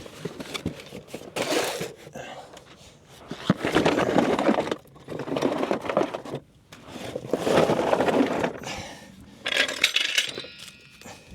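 Scraping, rustling and metallic clinking in several bursts of a second or two, from a person crawling over a crawl-space floor while dragging tools and a jack.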